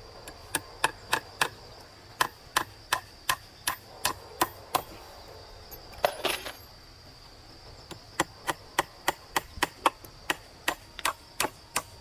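Hand tool striking wood in quick runs of sharp blows, about three a second, with a pause around the middle and a short scraping rustle.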